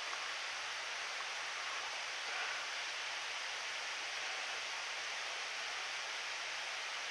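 Mountain stream's flowing water, a steady even rush.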